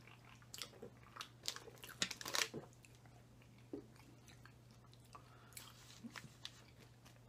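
Quiet close-miked chewing and crunching of breaded chicken and French fries. It comes as scattered short clicks and smacks, most of them in the first few seconds.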